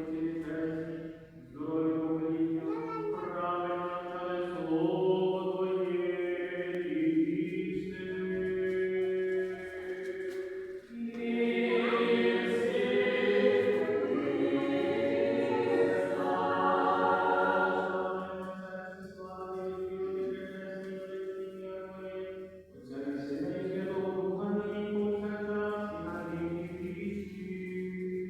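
Unaccompanied choir chanting a Ukrainian church hymn in long held notes, phrase by phrase, with short breaks between phrases.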